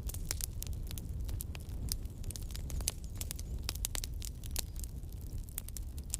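Campfire burning: a steady low rumble of the flames with many quick, irregular crackles and pops of burning wood.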